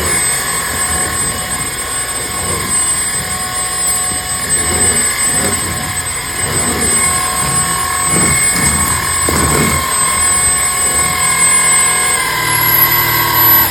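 Bissell CleanView cordless stick vacuum running with a steady high-pitched motor whine, the brush head rustling as it is pushed back and forth over the floor. About a second and a half before the end the whine rises in pitch, and right at the end it starts to wind down.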